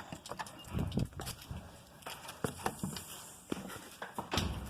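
Footsteps on wet, muddy ground: a string of irregular soft thumps and knocks.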